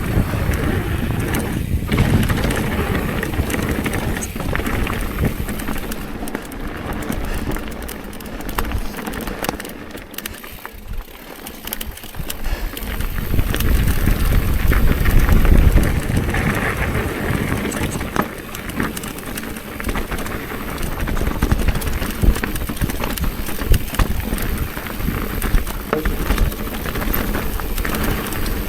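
Mountain bike riding down a trail: continuous tyre rumble and rattling, with wind buffeting the microphone. It eases off about ten seconds in, then grows louder again a few seconds later.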